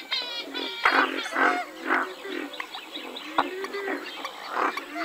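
Western swamphen calls: a rapid run of harsh, nasal squawks and honks, several in quick succession, some sliding in pitch, with a few sharp clicks among them.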